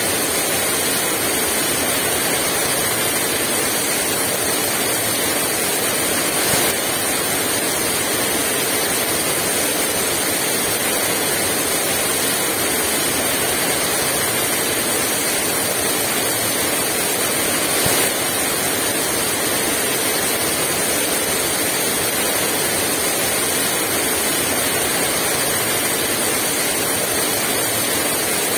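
Heavy rain falling steadily in a dense, even hiss, with no wind.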